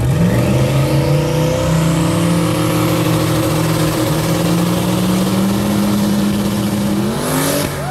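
Twin-turbo SN95 Ford Mustang engine held at steady high revs on the drag strip's starting line, building boost. A turbo whistle climbs in pitch over the first few seconds. Near the end the revs rise sharply as the car launches, and the sound drops away.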